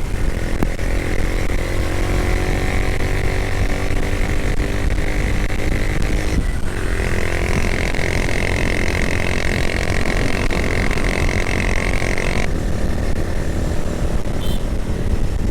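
Motorcycle engine running under way in traffic, with a steady low rumble of wind and road noise. The engine note shifts abruptly twice, about six and twelve seconds in.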